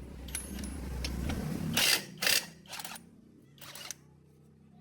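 A low mechanical hum that builds and then drops away about two seconds in, followed by a few sharp clicks and knocks.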